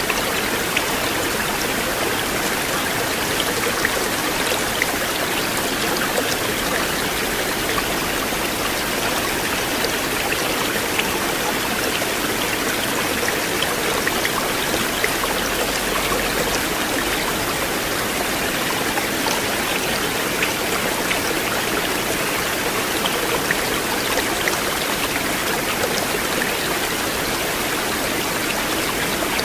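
River water flowing in a steady rush, with scattered small splashes and drips.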